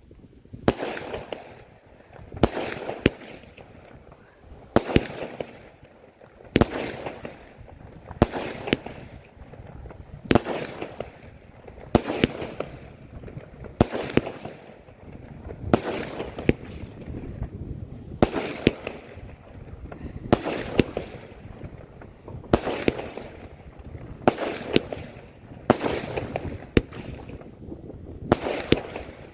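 Pharaon fireworks going off shot after shot: a sharp bang roughly every two seconds, now and then two in quick succession, each followed by about a second of fading noise.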